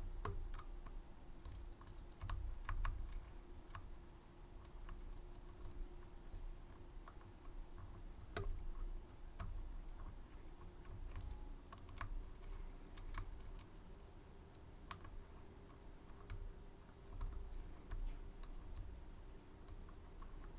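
Irregular small clicks and ticks of lock picks working the pins of a Medeco M3 high-security pin-tumbler lock, with soft low bumps from handling the lock.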